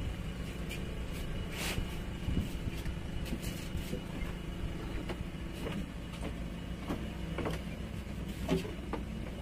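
Outboard boat engine idling steadily, a low even hum, with scattered light clicks and knocks on top.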